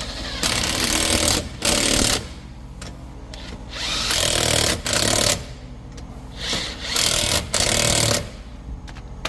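Impact wrench running the wheel nuts, including the locking nut, onto the car's front wheel. It goes in a series of short bursts with brief pauses between them.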